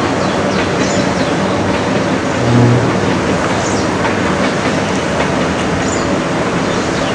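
A train passing on the ghat line, its wheels and cars making a loud, steady rushing rattle, with a short low tone about two and a half seconds in.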